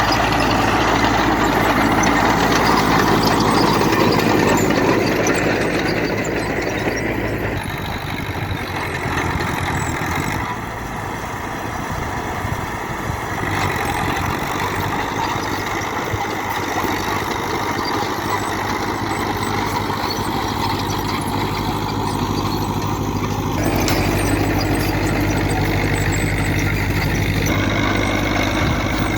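Fiat 70C tractor's diesel engine running steadily. It is louder for the first few seconds, eases off from about seven seconds in, and picks up again about four-fifths of the way through.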